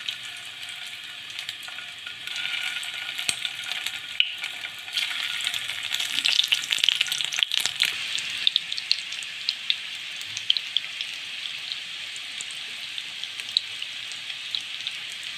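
Breadcrumb-coated chicken nuggets shallow-frying in hot oil: a steady sizzle with scattered crackling pops, loudest from about five to eight seconds in.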